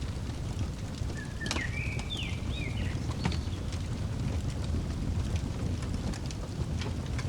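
Wood fire crackling with scattered sharp pops over a steady low rumble, and a bird calling with a quick series of chirping notes about a second in.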